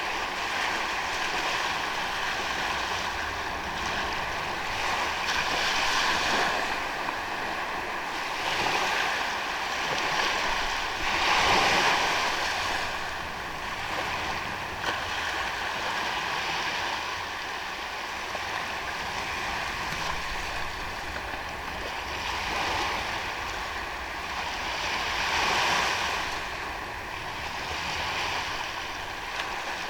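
Waves breaking and washing on a sandy beach, the surf swelling and easing every few seconds, with one larger wave about twelve seconds in.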